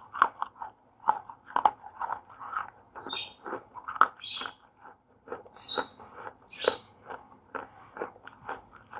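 Slate pencils being bitten and chewed close to the microphone: dry, brittle crunches and snaps coming irregularly, several a second.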